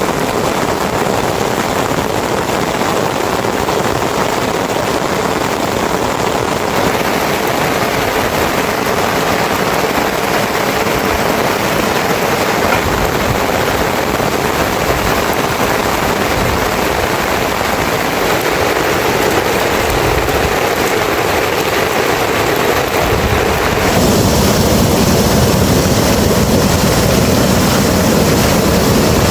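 Heavy rain falling steadily, a loud even rush. About 24 seconds in it changes abruptly to a fuller, deeper rush.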